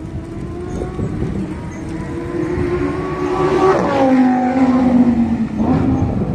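Ferrari 488 Pista's twin-turbo V8 driving slowly past at low revs. Its note rises gently as it approaches, then drops sharply in pitch as it passes, about four seconds in, and is loudest just after.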